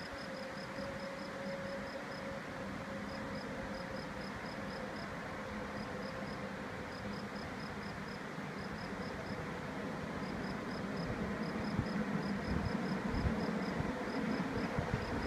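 Rhaetian Railway train running onto the stone viaduct overhead: a low rumble that grows louder over the last few seconds, above a steady background hiss. A high, even ticking in short runs, several ticks a second, goes on above it.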